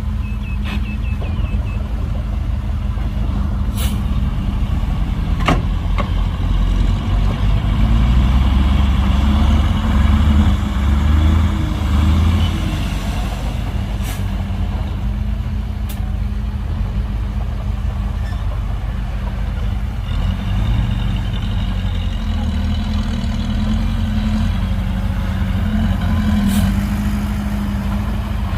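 Heavy diesel engine of earthmoving machinery running steadily, pulling harder and louder for a few seconds about a third of the way in, with a few sharp clanks.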